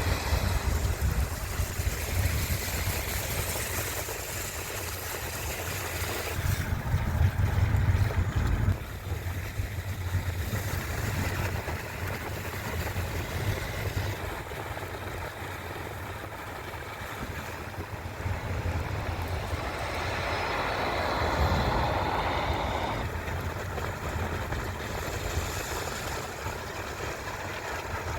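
A car driving, heard from inside: a steady low engine rumble with road and tyre noise over it, swelling louder twice along the way.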